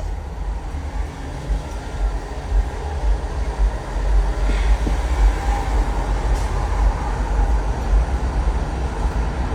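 Steady low rumble of a car in motion, road and wind noise picked up by a phone inside the cabin, growing louder about halfway through as the car speeds up.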